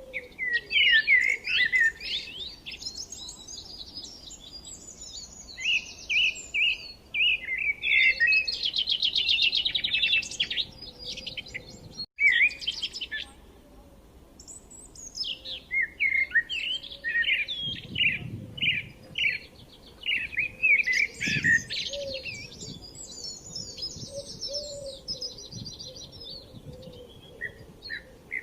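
Songbirds chirping and singing in quick, overlapping high calls, with a fast rattling trill about a third of the way in. The sound drops out for an instant near the middle.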